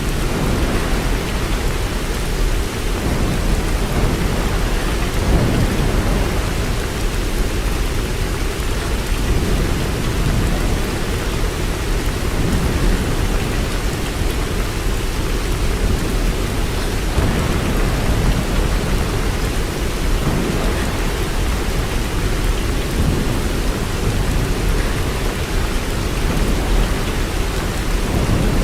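Steady heavy rain: a dense, unbroken hiss with most of its weight in a low rumble.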